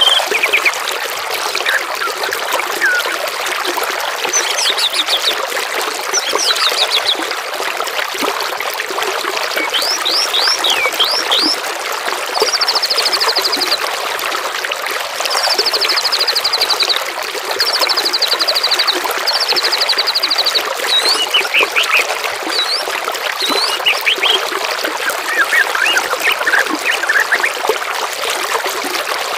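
Running water trickling steadily, with songbirds calling over it: quick high whistled notes that sweep up and down, and through the middle four buzzy rattling trills in a row.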